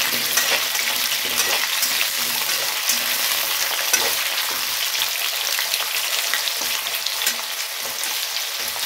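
Potato pieces frying in hot oil in a pan: a steady sizzle with constant small crackles and spits, the pieces being stirred now and then.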